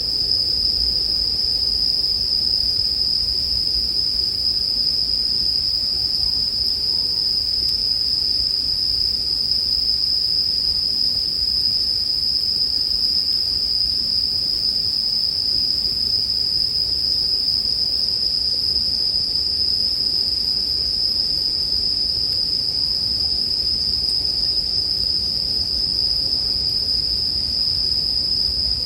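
Japanese bell crickets (suzumushi) singing in a dense chorus: a continuous high-pitched ringing that holds steady without a break.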